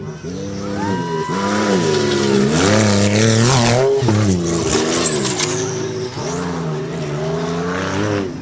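Off-road race truck engine revving hard as the truck passes at speed, its pitch rising and falling with the throttle, loudest about three to four seconds in with a rush of tyre and dirt noise and a drop in pitch as it goes by, then running on away.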